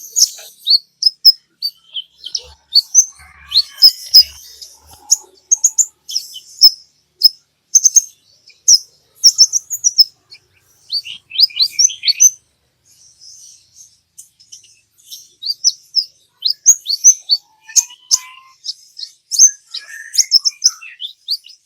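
A sunbird of the kind Indonesian keepers call kolibri ninja ('konin') singing busily: rapid, high, sharp chirps and short trills, with a quick run of falling notes before the middle and a brief lull after it. This is the full, energetic song (gacor) used as lure audio to get other birds singing.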